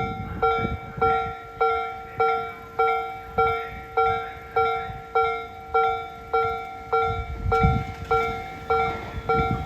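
Japanese railway level-crossing warning bell ringing, an electronic ding repeated evenly a little under twice a second. The low rumble of an approaching Tobu 60000 series train comes in near the end.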